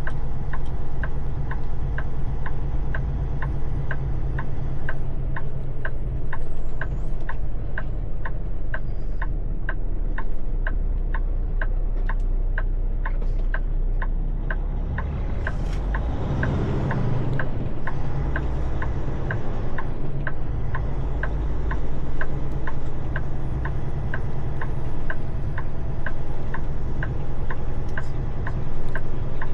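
Semi truck's engine idling, with a steady clicking about twice a second. A louder rushing swell rises and fades about halfway through.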